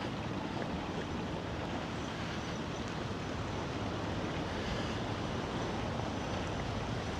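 Strong wind blowing across the microphone, a steady rushing noise heaviest in the low end.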